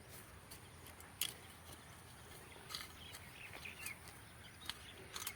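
Faint outdoor ambience with a few scattered bird chirps and light clicks.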